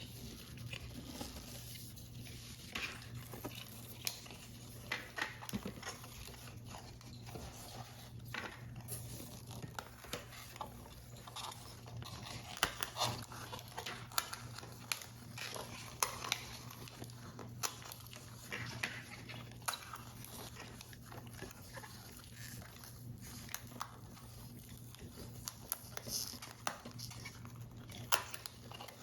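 Paper and card being handled up close in a paper model build: irregular soft crinkles, small taps and clicks, over a steady low hum.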